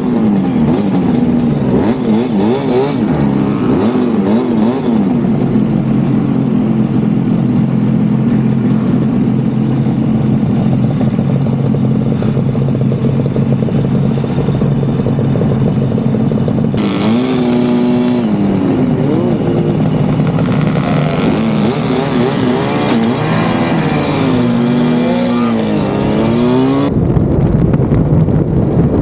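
Suzuki RG500's two-stroke engine revving and changing up through the gears as it pulls away, the pitch climbing and dropping with each shift, with other two-stroke motorcycles riding close by. Near the end, wind buffeting the microphone at speed covers the engine.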